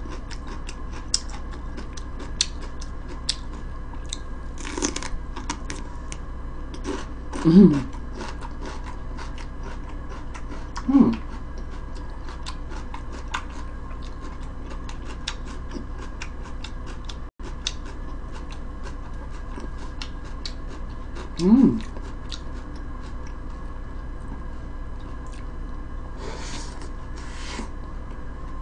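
Close-up chewing of celery and a fish sandwich: a steady run of small, crisp crunching clicks, with a few short hummed murmurs from the eater.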